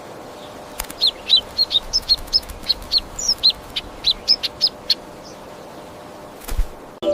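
A small bird chirping: a quick run of about twenty short, high chirps that stops after a few seconds. Near the end there is one dull thump.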